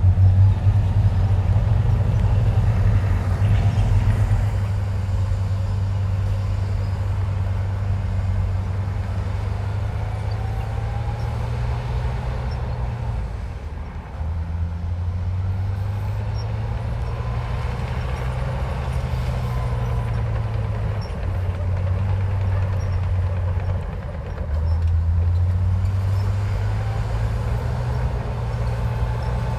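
Heavy diesel engine of a Komatsu bulldozer working, a deep steady drone that dips briefly about halfway through and again later before picking back up. A faint whine rises and falls above it.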